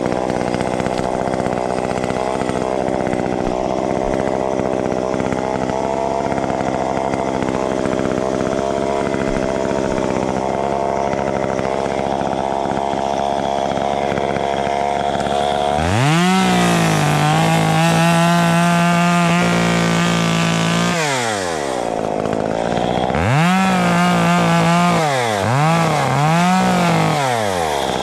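Two-stroke chainsaw idling steadily, then revved up to full throttle about 16 seconds in and held there for about five seconds before dropping back. It is then revved up again, with a few quick throttle blips near the end.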